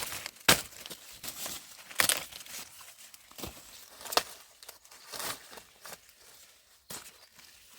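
Dry corn stalks, leaves and husks rustling and crackling as they are handled during a hand harvest, with several sharp snaps, the loudest about half a second, two seconds and four seconds in.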